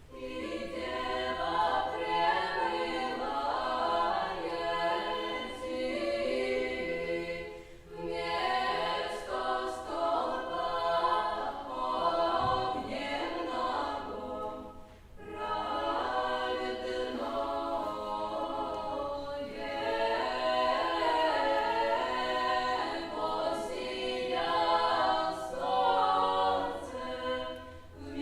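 An unaccompanied choir sings old Russian music in long phrases, breaking briefly about 8 and 15 seconds in.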